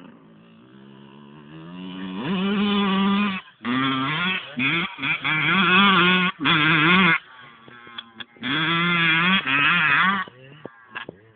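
Two-stroke dirt bike engine revving in several bursts as the throttle is opened and closed, its pitch rising and wavering under load, with short drops between bursts and a longer lull near the middle.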